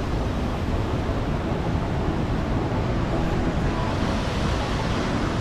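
Steady, loud rushing of a big waterfall's falling water.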